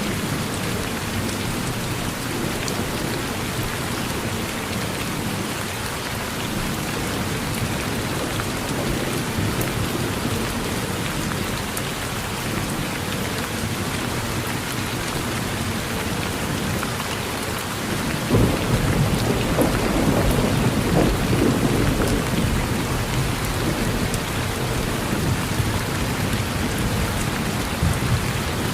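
Steady rain falling on a porch, with a low rumble of thunder rising about two-thirds of the way through and lasting several seconds.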